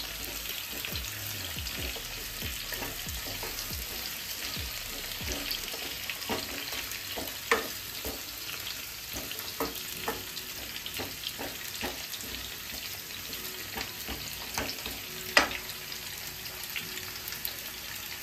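Pumpkin cubes sizzling in hot mustard oil in a kadai, with a spatula scraping and knocking against the pan as they are stirred. Two knocks stand out, about seven seconds in and again about fifteen seconds in.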